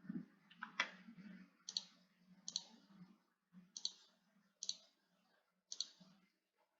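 Computer mouse button clicks: about seven sharp clicks roughly a second apart, the loudest about a second in, over a faint low hum.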